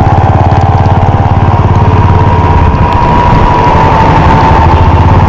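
Royal Enfield single-cylinder motorcycle engine running steadily with an even, rapid thump.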